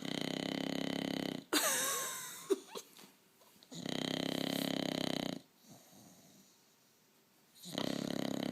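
Bulldog snoring: three long, rattling snores about four seconds apart, each lasting about a second and a half. Between the first two snores comes a short squeaky, gliding sound.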